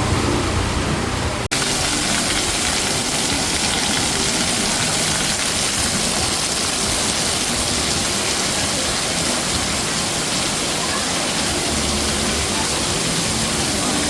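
Heavy rain pouring steadily, a dense even hiss. About a second and a half in, the sound drops out for an instant and comes back with less low rumble underneath.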